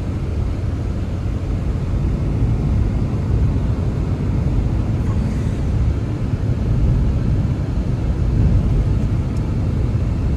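Strong blizzard wind blowing, a steady deep rumbling rush that swells and eases, with a couple of faint ticks.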